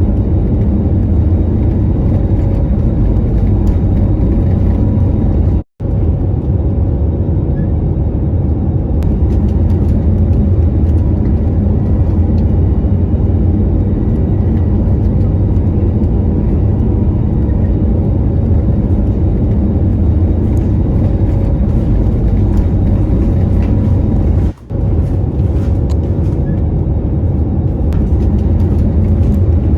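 Steady low rumble of airliner cabin noise in flight, the drone of jet engines and airflow, broken twice by abrupt brief cuts to silence.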